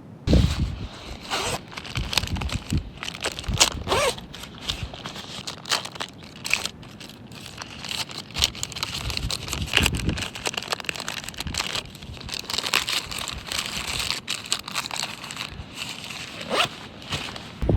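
Close rustling and crinkling of synthetic outdoor clothing being handled and put on, with short zip-like tears and crunches coming irregularly.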